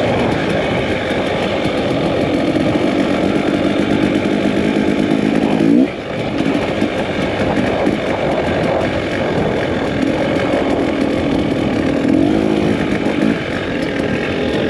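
Two-stroke dirt bike engine running under riding load, its note rising and falling with the throttle. The revs climb and cut off sharply about six seconds in, and climb again near the end.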